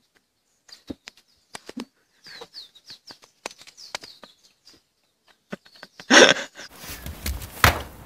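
Small birds chirping in short high calls, with scattered light knocks. A loud crash-like burst comes about six seconds in, followed by a steady rushing noise and a sharp knock near the end.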